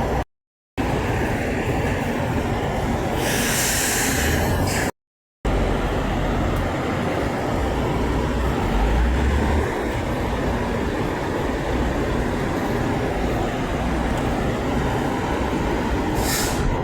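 Semi-truck traffic going by, a steady low rumble of engines and tyre noise. About three seconds in there is a burst of hiss lasting under two seconds, and a short one comes near the end. No horn sounds, and the sound cuts out to silence twice for a moment.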